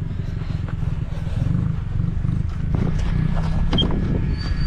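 An engine idling: a steady low rumble, with a few faint knocks and clicks over it.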